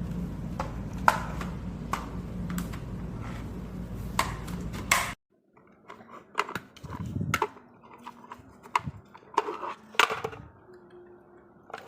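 Sharp clicks and knocks of hard plastic parts being handled and fitted together. For the first five seconds they sit over a steady low hum that cuts off abruptly; after that the clicks and knocks come scattered over a quiet background.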